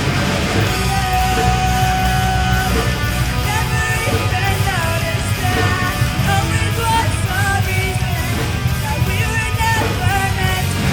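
Live rock band playing loudly: distorted electric guitars, bass and drums, with a lead line that bends and slides in pitch over the band.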